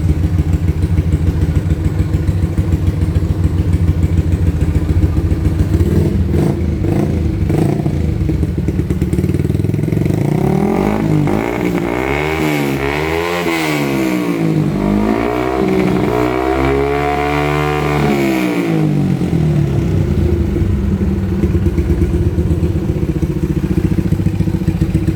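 Motorcycle engine and exhaust idling steadily, revved up and let fall twice in the middle, then settling back to idle.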